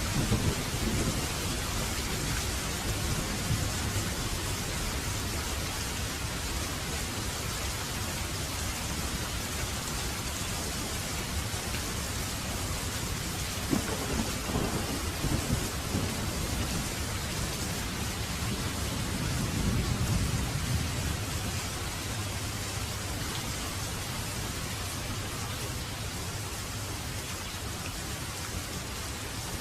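Heavy rain falling steadily, with thunder: a low rumble near the start, a crackling peal about halfway, and a longer rumble about two-thirds through.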